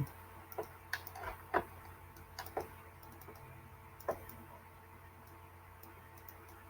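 Scattered light clicks and taps, several close together in the first few seconds and then sparser, over a faint steady hum.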